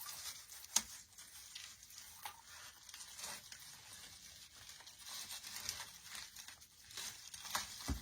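Artificial pine and floral picks rustling and crinkling as they are handled and positioned, with small clicks and one sharper click about a second in.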